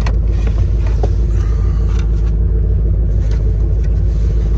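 Steady low rumble of an engine running, with a constant hum and a few light clicks and knocks.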